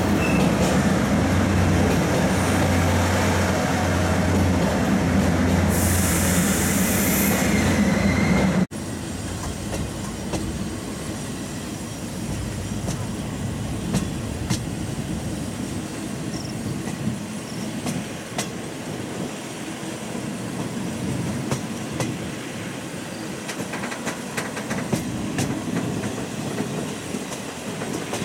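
A diesel express train runs past close by with a steady engine hum and a brief hiss about six seconds in. About nine seconds in the sound drops suddenly to the quieter rolling of a Japanese-built old passenger coach pulling slowly away, its wheels clicking over the rail joints, heard from an open window.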